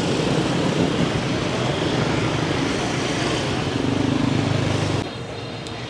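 Busy street traffic with the steady drone of passing vehicle engines; one engine swells close by around four seconds in before the noise drops off sharply about a second later.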